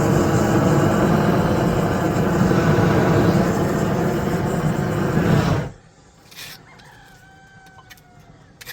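A loud, steady mechanical rumble with a hum running through it cuts off suddenly about six seconds in. A rooster then crows faintly, one drawn-out call that falls slightly at the end.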